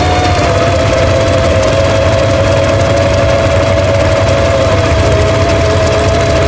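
Kamov Ka-26 helicopter's two radial piston engines running at a steady speed, a low throb under a steady hum.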